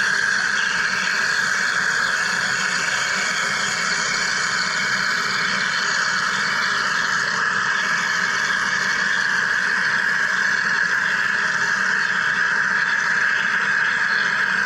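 Wire EDM machine cutting: a steady, even hissing buzz that holds unchanged throughout.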